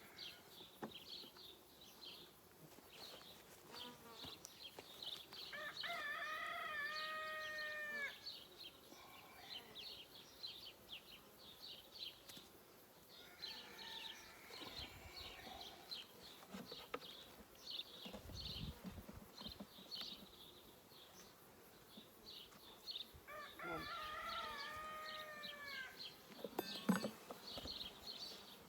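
A rooster crowing twice, about six seconds in and again near the end, over small birds chirping and the buzz of honeybees around an open hive. A single sharp knock comes shortly before the end.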